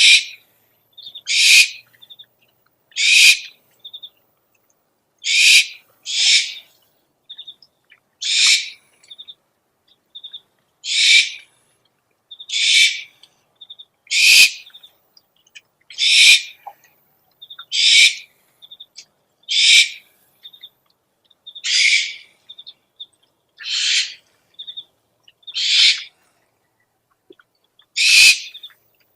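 Owl calls: harsh, hissing screeches of about half a second each, repeated roughly every two seconds, with short faint high chirps in between.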